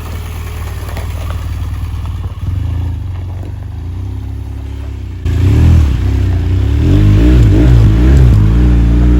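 Motorcycle engine running as the bike is ridden, its revs rising and falling, much louder from about halfway through.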